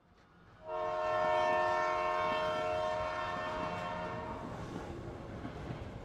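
Train horn sounding one long chord of several tones, starting about half a second in and cutting off after about four seconds, followed by the rumble and clatter of the passing train fading away.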